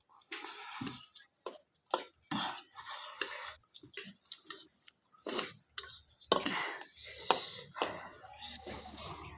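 A person eating noodles, with a run of irregular short slurps and chewing noises.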